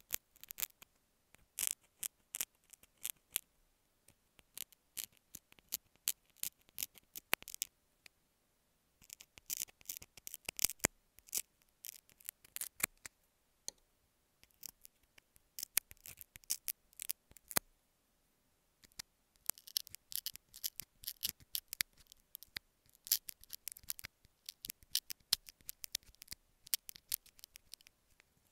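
Metal dental scaler scraping and tapping close to an earphone microphone: dense clusters of quick, sharp, high-pitched clicks and scratches with short pauses between them.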